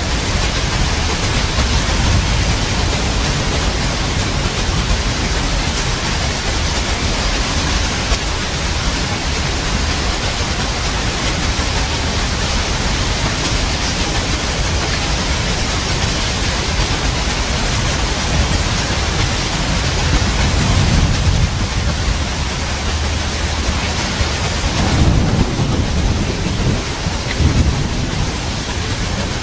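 Steady heavy rain hissing, with rolls of thunder rumbling low beneath it about two-thirds of the way through and again near the end.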